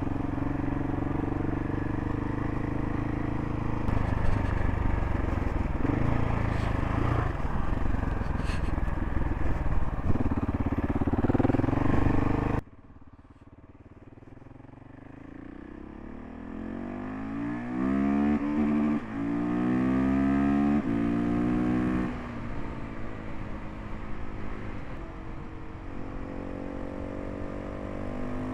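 Adventure motorcycle riding at a steady speed, with its engine running under road and wind noise and some clatter. About halfway through, the sound drops off suddenly. Then the engine pulls away, its pitch rising through several gear changes, and it settles into a steady cruise near the end.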